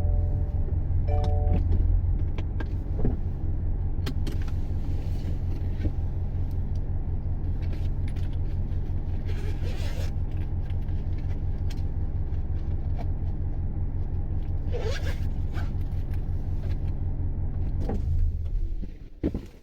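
Low, steady rumbling drone with a fast, even pulsing, heard inside a Subaru Levorg's cabin while it is driven; this is the noise recorded as abnormal while driving. It dies away shortly before the end.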